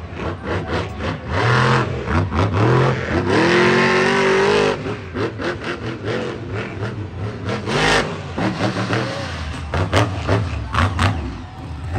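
Monster truck engine revving hard, its pitch rising and falling in bursts, loudest about a third of the way in.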